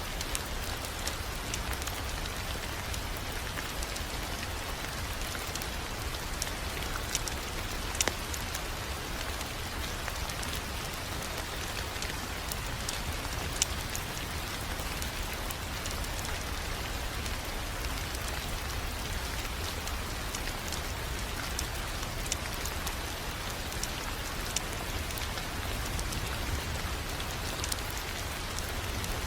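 Wood fire crackling: a dense, steady hiss of small crackles with a few sharper pops, over a low rumble.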